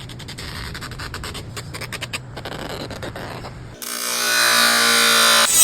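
Rapid, irregular clicking and ratcheting of small mechanical parts. About four seconds in, an abrupt cut brings in the loud, steady whine of a small power tool's motor, which grows louder.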